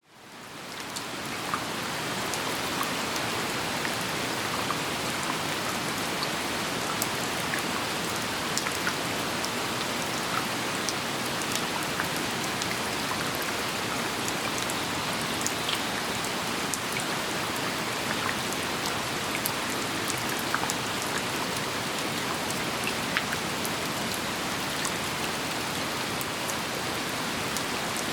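Steady rain falling, a constant hiss with many separate close drops ticking out of it. It fades in over the first second or so.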